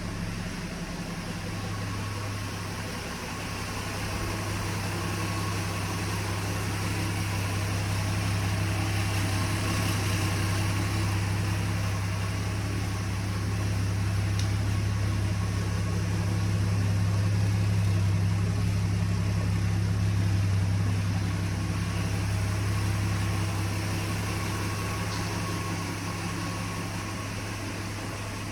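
1966 Ford pickup's freshly rebuilt 240 cubic-inch inline six idling steadily with an even low hum.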